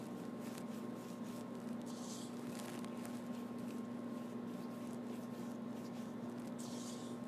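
Paintbrush working paint over a stage backdrop: two brief scratchy swishes, about two seconds in and near the end, with faint ticks between, over a steady low hum.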